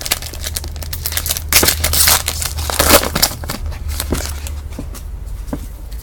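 Foil wrapper of a trading-card pack being crinkled and torn open, a dense crackle that thins out in the last couple of seconds, over a steady low hum.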